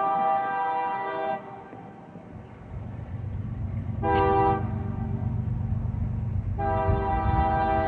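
Diesel locomotive's multi-tone air horn sounding a chord: a long blast that cuts off about a second and a half in, a short toot about four seconds in, and another long blast starting near the end. Under it, the low rumble of the locomotive's engine grows in as the train approaches.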